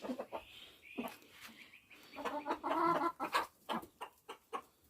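Hens clucking, with a longer run of calls about two seconds in and scattered short clicks between.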